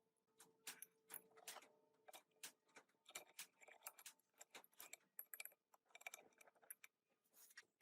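Small metal parts clinking and tapping in a quick, irregular series of light clicks, some with a faint short ring.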